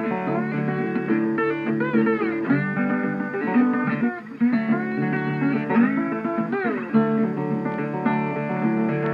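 Background music: a plucked guitar tune, its notes often sliding and bending in pitch.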